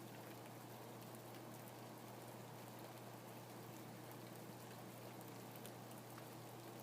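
Steady rain falling, a soft even hiss with many small drops ticking through it, over a low steady hum.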